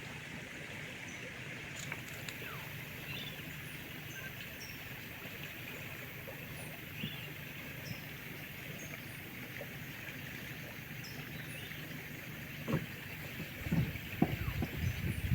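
Rainforest riverside ambience: short high chirps repeating every second or so over a steady hiss and a low steady hum. A cluster of louder low knocks and rustles comes near the end.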